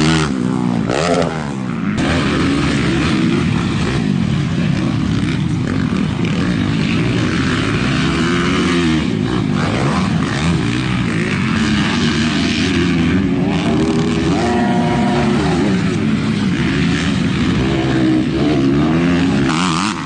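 Motocross dirt bike engines at race pace, their pitch rising and falling over and over as the riders accelerate, shift and back off around the track.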